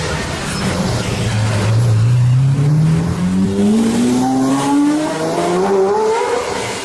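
Sports car engine accelerating hard, its pitch climbing steadily for about five seconds.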